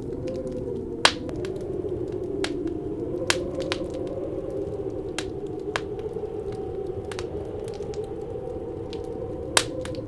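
Wood fire crackling with irregular sharp pops, the loudest about a second in and near the end, over a steady low howling wind that wavers slightly in pitch.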